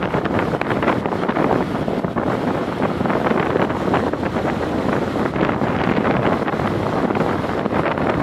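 Steady rush of heavy rain, thick with small crackling drops, mixed with wind buffeting the microphone.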